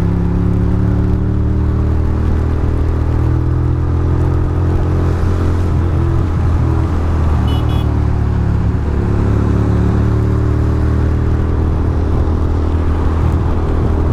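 Ducati Monster's L-twin engine running steadily at highway speed, under a continuous rush of wind and wet road noise. The engine note breaks up briefly about halfway through, then settles again.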